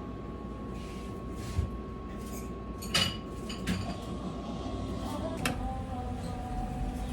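Kitchen work: scattered clinks and knocks of dishes and utensils, the loudest about three seconds in, over a steady faint hum.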